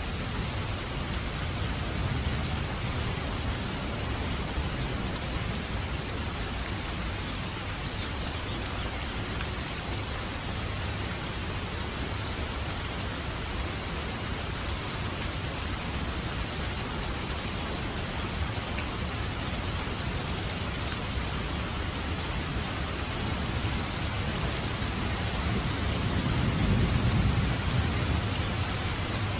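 Steady rain falling on a roof. Near the end, a low rumble of thunder swells up underneath it.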